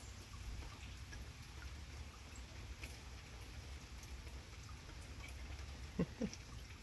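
Steady light rain falling and pattering, with scattered faint drips. Two brief low sounds come about six seconds in.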